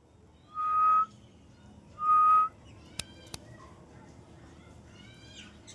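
Pet parrot whistling two long, clear, flute-like notes at the same pitch, each about half a second long, then short chirps near the end. Two sharp clicks come about three seconds in.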